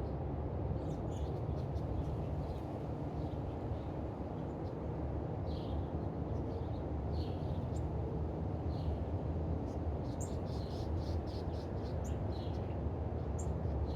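Small birds chirping at a feeder: short high chirps scattered throughout, with a quick run of them about ten seconds in, over a steady low background rumble.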